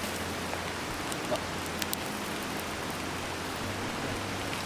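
Butter and oil sizzling steadily as food cooks over a fire, with scattered small pops and crackles.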